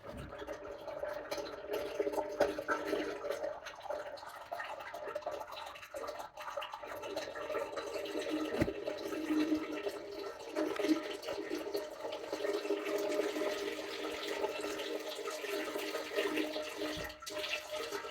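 Hydraulic oil draining from a backhoe's hydraulic tank, pouring in a steady splashing stream into a container below.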